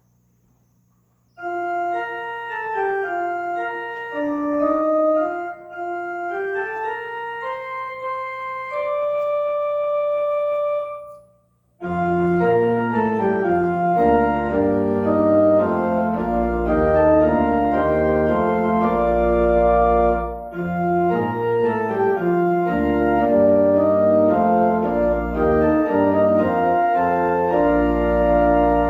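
Organ playing. A single melody line of held notes begins about a second and a half in and stops briefly near the middle. Then the full organ comes in with chords over deep bass notes.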